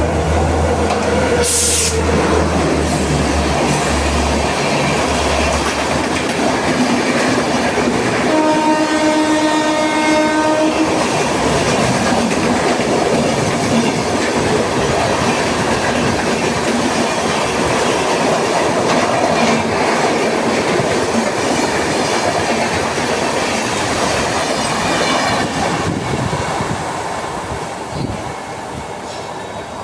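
Express train passing at full speed, its wheels clattering over the rails in a loud, steady rush. About eight seconds in, the locomotive sounds one steady horn blast lasting two to three seconds.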